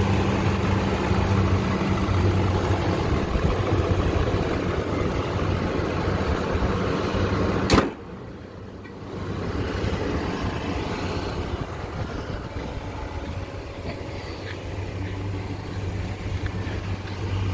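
2012 Nissan Titan's 5.6-litre V8 idling steadily with a low hum. About halfway through there is a sharp click, and the idle is quieter after it.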